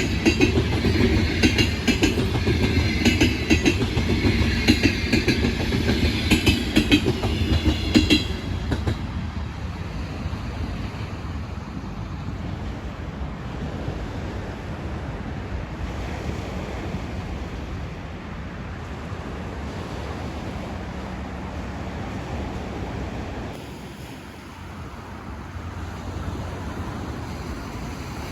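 Passenger train passing close by, its wheels clattering rapidly over the rail joints, loudest for the first eight seconds; after that the sound drops to a quieter steady rumble.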